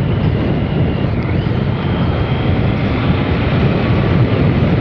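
Heavy wind noise on the rider's microphone over the Triumph Sprint RS's 955 three-cylinder engine, riding at speed. A faint engine note rises in pitch a little over a second in.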